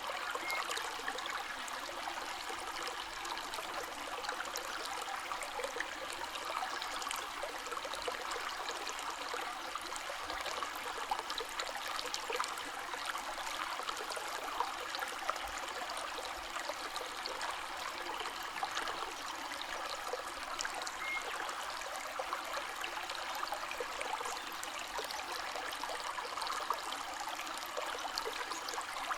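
River water flowing and trickling over stones, a steady babbling with fine splashes throughout.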